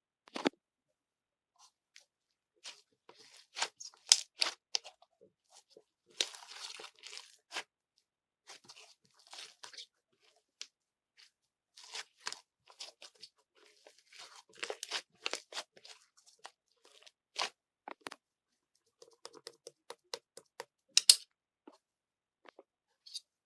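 Close handling noises: irregular crackles, crunches and tearing sounds in scattered bursts, with a sharp, louder crack near the end.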